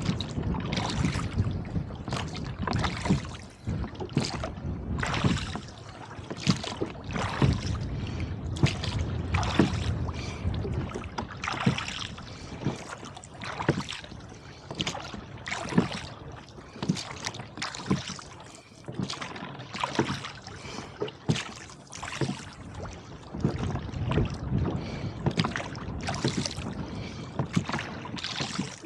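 Wind-driven chop slapping and splashing against a rowboat's hull as it is rowed, in many quick, irregular splashes. Wind gusts buffet the microphone with a low rumble that swells a few times.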